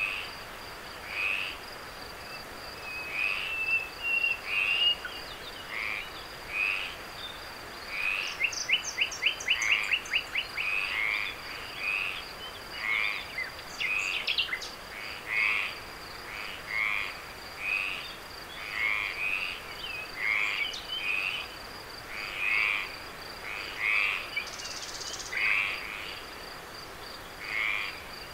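Frogs calling over and over, a short croaking call roughly every second, with a quick run of rapid pulses about a third of the way in. Behind them runs the steady, high, unbroken drone of night insects.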